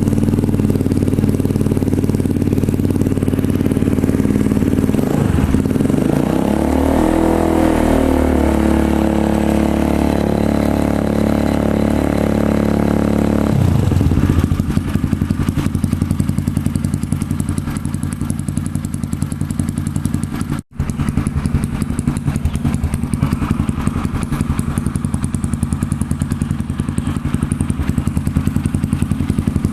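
Honda CRF motorcycle engine running through a Triton CR-5 stainless-steel full-system aftermarket exhaust. It idles, is revved up about five seconds in and held at raised revs for about eight seconds, then drops back to a steady idle. The sound cuts out for a moment about two-thirds of the way through.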